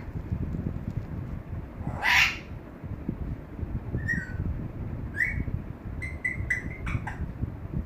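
Pet parrot calling: one loud, harsh squawk about two seconds in, then a series of short whistled chirps and a click toward the end.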